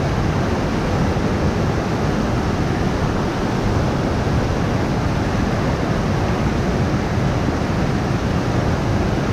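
Steady rushing wind noise buffeting the microphone, heaviest in the low range, with no distinct events.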